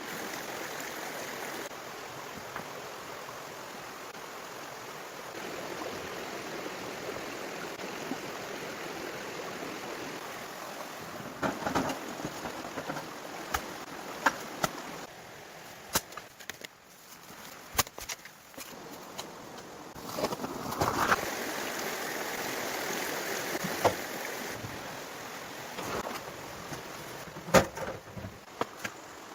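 Steady rush of flowing water, with scattered sharp knocks and clicks over it in the second half.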